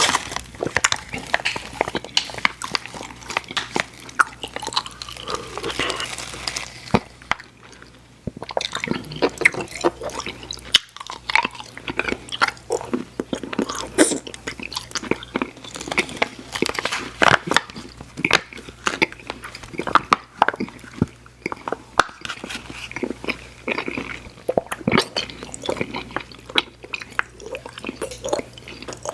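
Close-miked mouth chewing of soft, chewy sour candy, Airheads Xtremes gum, bars or bites: wet, sticky smacking and clicking.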